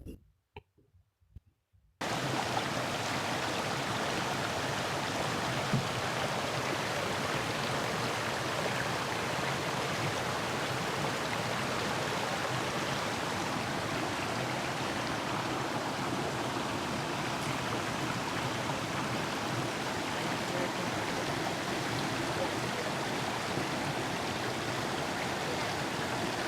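River water rushing steadily, a continuous even noise that comes in suddenly about two seconds in after a short near-silence with faint clicks.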